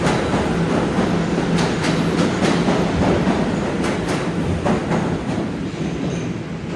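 An R211A subway train running along the track: a steady rumble and hum, with wheels clicking sharply over rail joints in small clusters. The sound eases off slightly near the end.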